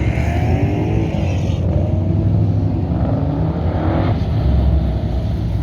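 A square-body pickup's engine running hard around an autocross course, its pitch climbing and dropping again and again with the throttle, over a steady low rumble.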